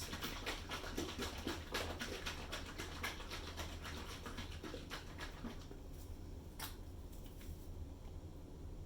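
A rapid run of small clicks and scrapes from hands handling paint supplies. It thins out after about five seconds, with one sharper click later on.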